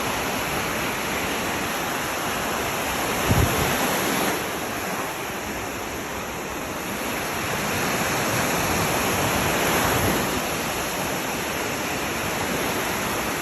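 Sea surf washing onto a beach, a steady rush of waves that swells and eases. There is a brief low thump about three seconds in.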